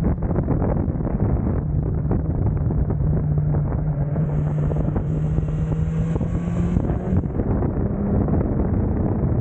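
Motorcycle at speed on a race track, heard from onboard: heavy wind rush over the microphone with a steady engine drone underneath.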